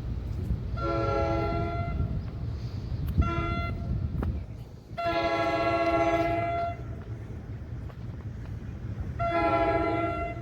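Train horn sounding four blasts, a long one, a short one, then two long ones, each a chord of several notes, over the low steady rumble of the train.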